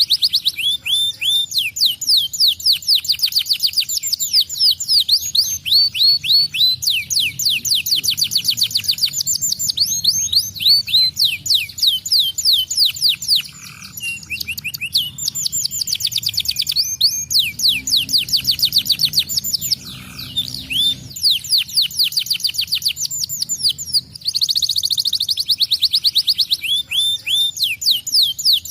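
Domestic canary singing a long, fast, high-pitched song: rapid trills of quickly repeated rising and falling notes, changing from one trill type to the next, with a few brief breaks.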